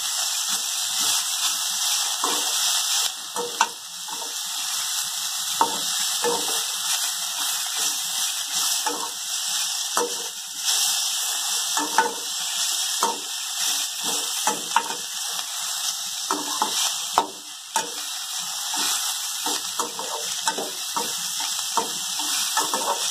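Chopped onion, tomato and coriander sizzling in hot oil in a steel kadai while a spatula stirs them, scraping and knocking against the pan several times a second over a steady sizzle. The masala is being sautéed before grinding.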